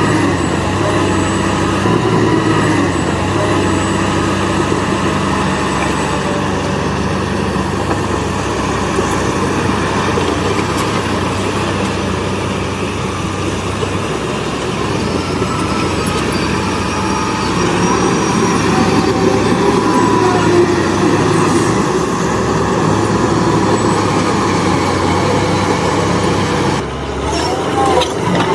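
Heavy diesel construction machinery engines running steadily under load, with a continuous mechanical clatter. The sound briefly drops and changes near the end.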